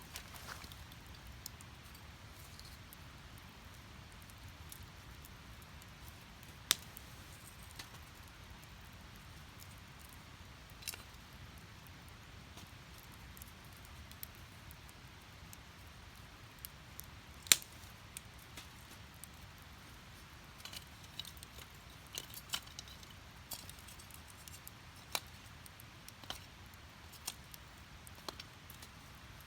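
Wood fire crackling in a steel fire pit: scattered sharp crackles and pops, with two louder pops, one about seven seconds in and one about seventeen, over a low steady rumble.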